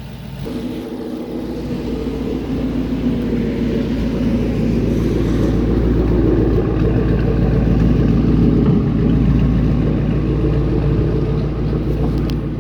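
2012 Ford Mustang GT's 5.0 L V8 running through a Roush aftermarket exhaust, with a deep, steady exhaust note. It builds gradually louder over the first several seconds and eases slightly near the end.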